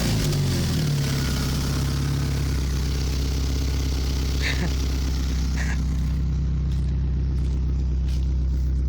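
Volkswagen Golf IV 1.6 petrol four-cylinder engine breathing through a Green Speed'r Twister open air intake. The revs drop back from a blip in the first second, then the engine idles steadily.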